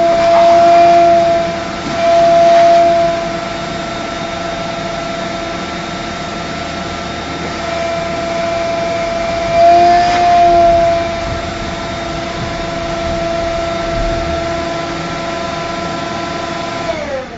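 Vacuum cleaner motor running with a steady whine, swelling louder a few times as the nozzle works over the car's interior. Near the end it is switched off and the whine drops in pitch as the motor winds down.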